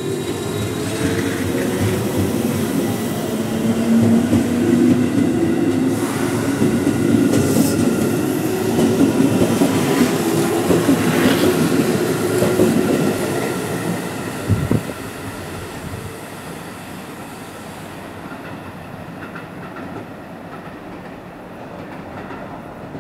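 Electric commuter trains (JR 211 and 313 series) running past at speed: loud wheel-on-rail noise with a traction-motor hum that shifts in pitch, one sharp thump about 14 seconds in, then the noise drops to a quieter steady rumble as the next train approaches from a distance.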